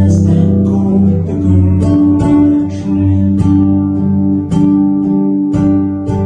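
Music: acoustic guitar strummed in a steady rhythm over held low notes, with no sung words.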